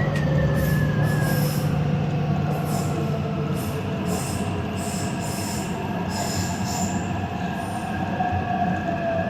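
Taipei Metro Zhonghe-Xinlu line train running, with a steady rumble of wheels on rail and a whine from the traction motors; a tone falls slowly in pitch in the first couple of seconds. Short high-pitched wheel squeals come again and again for the first seven seconds or so.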